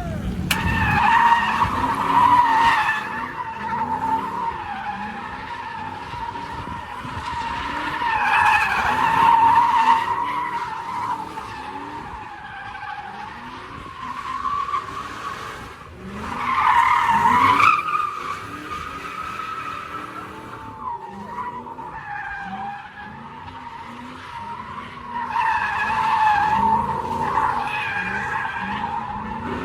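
Car tires squealing in long, wavering screeches that swell and fade about four times, over low engine noise.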